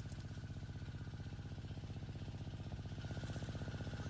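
A small engine running steadily with an even, rapid pulse, growing a little louder about three seconds in.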